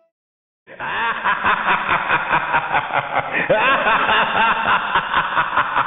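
Several people laughing and chattering at once, cutting in suddenly after a brief silence less than a second in.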